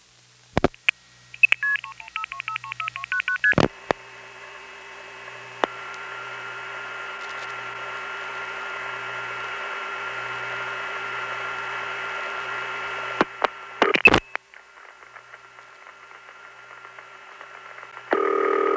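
Tape of an analog Bell System long-distance call. A switching click is followed by a quick string of multi-frequency (MF) pulsing tone pairs, the network signalling the number from switch to switch. After a clunk comes a steady tone over line hiss, the old dial-tone/busy tone put on by the test line, broken by a few clicks partway through, with a louder tone near the end.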